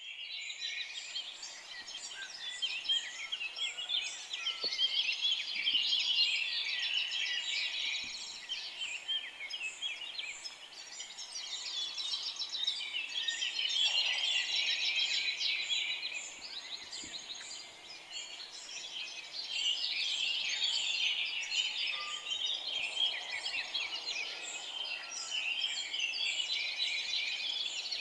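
A dense chorus of many small birds chirping and twittering at once, swelling louder and then easing off every several seconds.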